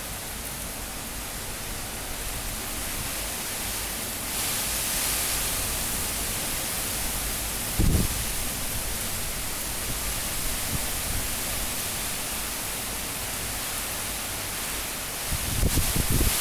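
Super cyclone wind blowing hard as a steady hiss. A gust strengthens about four seconds in. A brief low thump of wind hits the microphone about halfway through, and more low buffeting comes near the end.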